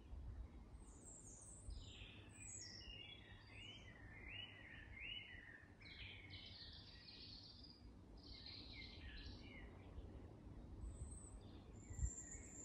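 Faint outdoor birdsong: several small birds chirping and trilling in quick overlapping phrases, over a soft low rumble, with one brief soft thump near the end.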